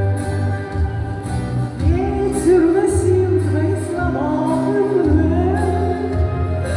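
A pop song with a steady beat and bass line; a singing voice comes in about two seconds in.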